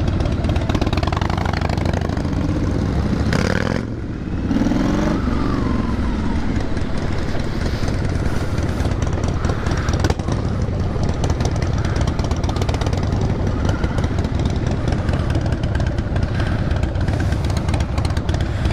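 Motorcycle engines running steadily, with revs rising and falling in the first few seconds.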